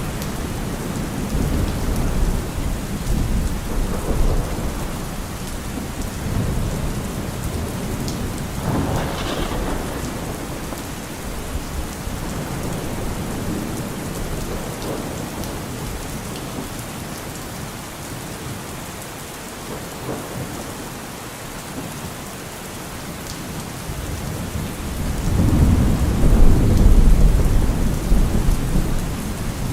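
Steady rain falling, with rolling thunder rumbling low; the thunder swells loudest near the end.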